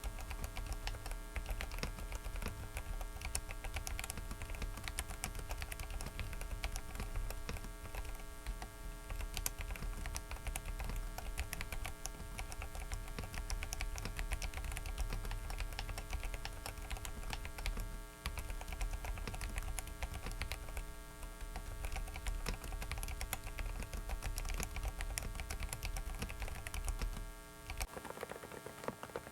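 Rapid typing on a Dareu mechanical keyboard: a fast, continuous run of key presses clicking under the fingers. Underneath is a steady electrical hum and low rumble from a faulty microphone, and the rumble cuts out near the end.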